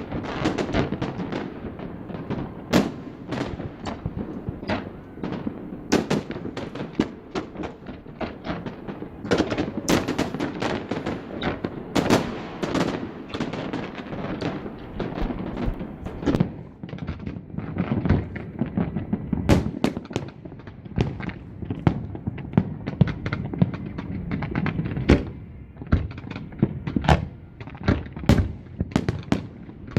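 Fireworks display: a dense, continuous barrage of bangs and crackling from exploding shells, several per second, with louder booms every few seconds.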